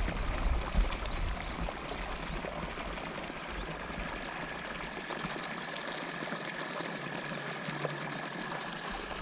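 Water pouring steadily from a pumped inflow into a pond, an even rushing splash. A faint steady high tone joins about three and a half seconds in.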